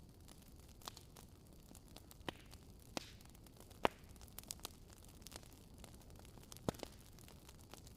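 Wood fire crackling in a fireplace: sharp irregular pops and snaps of burning logs over a low steady hiss, the loudest pop a little before the middle.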